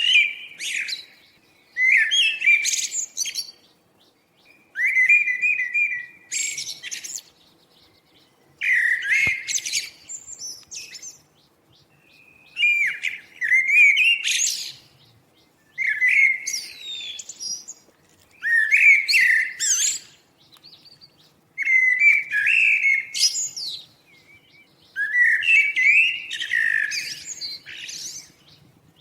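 A songbird singing the same short, warbled song over and over, about eight phrases, each around two seconds long and three to four seconds apart.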